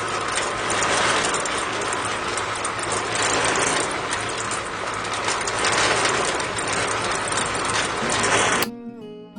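A small motor running steadily with a low hum under a dense mechanical noise, then cutting off abruptly near the end.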